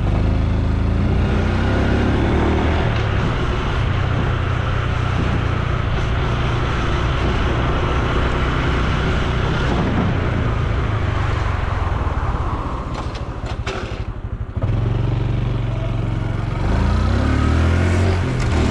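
Honda Super Cub C125's single-cylinder four-stroke engine and exhaust running under way, with wind rushing past. About three-quarters of the way in the engine drops away briefly, then picks up again, rising in pitch near the end as the bike accelerates.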